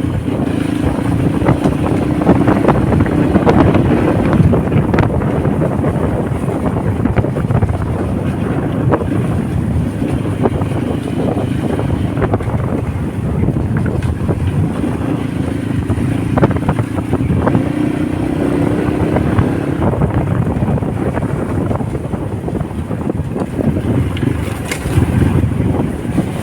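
Honda motorcycle engine running on the move, its pitch rising twice as it accelerates, under heavy wind buffeting on the microphone.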